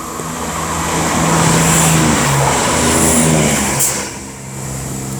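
Two coupled Class 170 Turbostar diesel multiple units passing, their underfloor diesel engines running with a rumble of wheels on rail. The sound swells to a peak about two seconds in, the engine note drops in pitch as the train goes by, and then it falls away.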